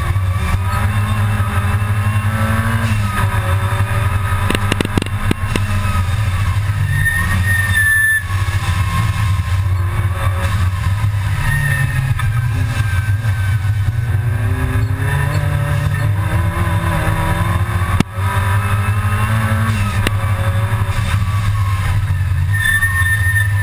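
Supercharged G60 four-cylinder engine of a Mk II Golf GTI race car, heard from inside the cabin under hard racing load. Its note rises and falls with speed and gears, dipping briefly a few times, once with a sharp click about three quarters of the way through.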